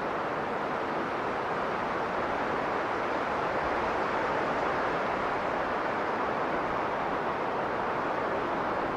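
Strong blizzard wind blowing in a steady, dense rush that swells slightly around the middle.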